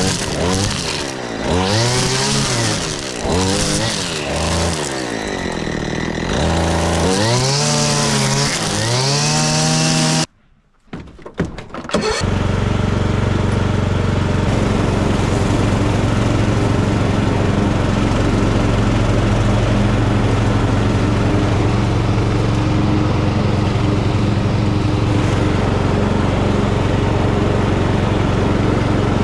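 An engine revving up and down repeatedly, then an abrupt break of about two seconds. After the break, a tractor engine and mower run at a steady, even drone while cutting grass.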